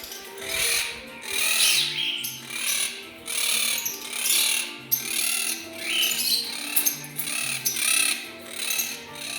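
Pet birds calling loudly over and over, about two shrill squawks a second.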